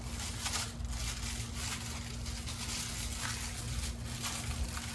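Background hum: a steady low hum with a faint steady tone, and light scattered handling ticks and rustles over it.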